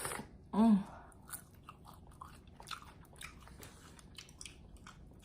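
A person chewing and biting into fried chicken wings close to the microphone, with many small wet mouth clicks and crunches. There is a short hummed vocal sound just under a second in.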